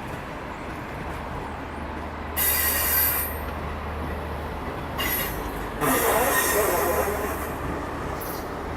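A departing train rolling past with a steady low rumble, its wheels squealing on the rails in loud bursts, about two seconds in and again from about five seconds to seven and a half.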